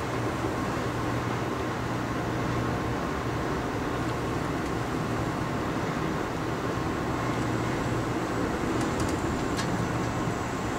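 Amtrak Crescent passenger train rolling along the track, heard from inside the coach: a steady rumble of wheels on rail with a constant low hum. A few light clicks come about nine seconds in.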